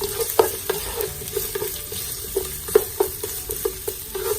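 Ginger sautéing in hot oil in a pan, sizzling steadily while a spatula stirs it, with irregular knocks and scrapes of the spatula against the pan, each ringing briefly.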